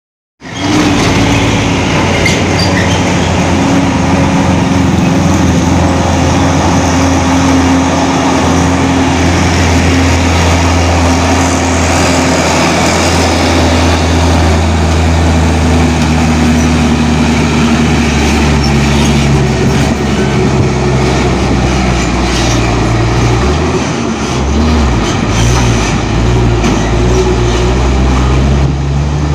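Heavy diesel truck engine running loudly under load on an uphill road, a steady low drone whose pitch steps and shifts several times in the last third.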